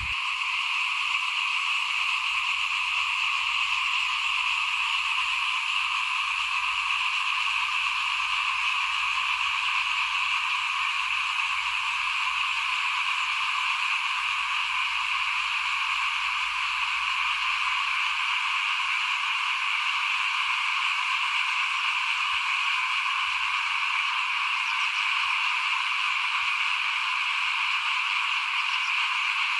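A dense chorus of small frogs calling, a steady, unbroken wall of overlapping calls with no pauses.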